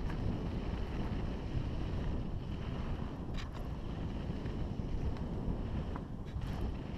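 Wind rushing over the microphone on a mountain bike riding downhill, a steady low rumble, with a couple of faint clicks from the bike over the rough trail.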